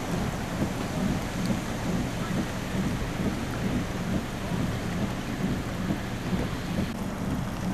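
Steady rain falling during a thunderstorm, with a continuous low rumble under it.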